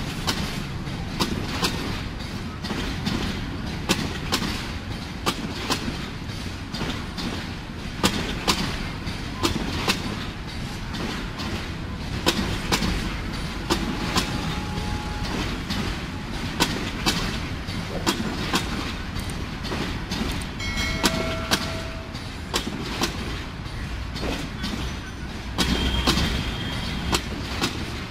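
Passenger coaches of a Bangladesh Railway express rolling slowly past with a steady rumble, their wheels clicking and knocking over rail joints and points many times. A short horn-like tone sounds about two-thirds of the way through.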